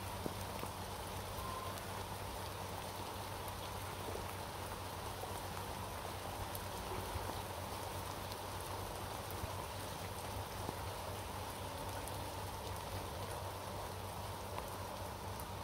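Steady rain falling: an even hiss with scattered drops ticking now and then.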